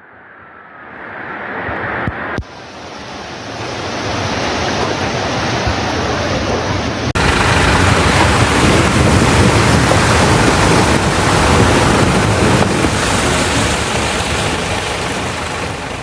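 Floodwater rushing in a steady roar, mixed with wind buffeting the microphone. It builds over the first few seconds and jumps louder suddenly about seven seconds in.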